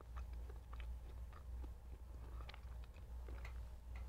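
Chewing and mouth sounds of someone eating French toast: a string of small, irregular clicks and smacks.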